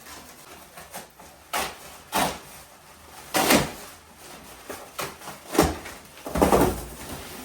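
Protective wrapping being torn off a new fridge: a series of about six short, sharp rasping tears, a second or so apart.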